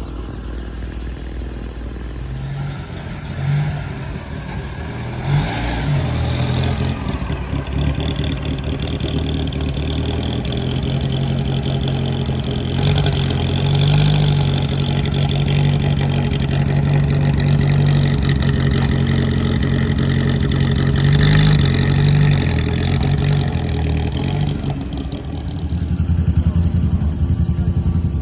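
Car engines running and revving, with short throttle blips a few seconds in and a steadier, louder run through the middle.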